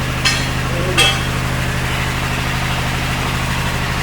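Engine running steadily, with two sharp metallic clinks just after the start and about a second in.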